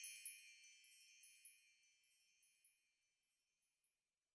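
Wind chimes tinkling faintly and fading away: a few light high strikes in the first second and a half, then the ringing tones die out.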